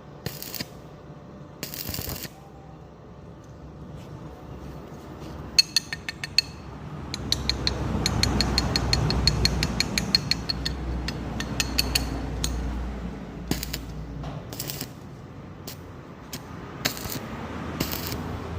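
Metal clinking and clicking from hand work on metal parts. In the middle comes a long run of fast, even ticking like a ratchet or gears turning, over a low rumble. Separate clinks follow near the end.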